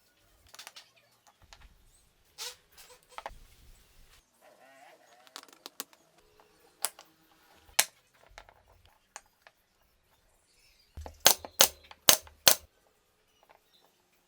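A series of sharp clicks and taps, with a quick run of four loud clicks about eleven seconds in.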